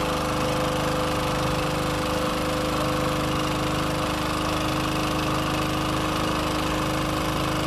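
A boat engine running steadily at constant speed: an even mechanical hum with a fast low chugging rhythm.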